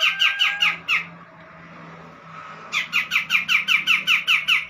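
Cucak jenggot (grey-cheeked bulbul) giving a fast run of harsh, falling notes, about six a second. The run breaks off about a second in and starts again near the three-second mark.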